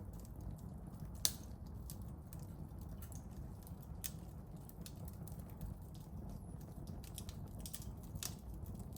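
Small wood campfire burning: firewood crackling with scattered sharp snaps over a low steady rumble of the flames, with one loud pop about a second in.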